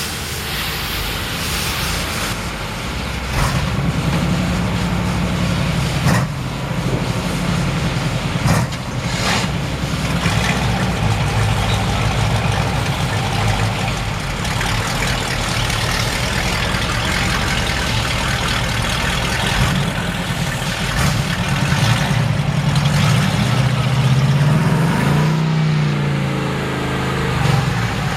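A truck engine running steadily, under a constant hiss, with a few sharp knocks in the first ten seconds. Its speed rises and falls briefly about three quarters of the way through.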